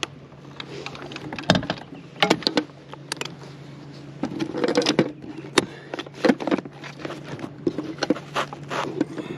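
Irregular knocks, clicks and rattles of gear being handled in a fishing boat, over a steady low hum.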